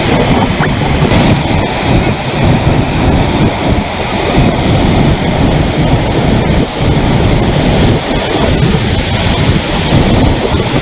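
Floodwater rushing loudly and steadily over an overflowing irrigation tank's surplus weir.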